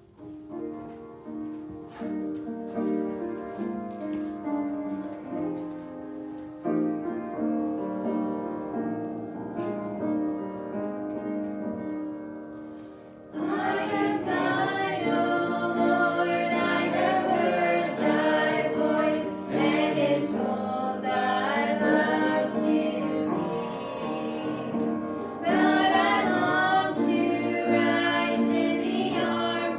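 A gospel song: about 13 seconds of instrumental introduction, then the family's voices come in singing, women's voices among them, over the accompaniment.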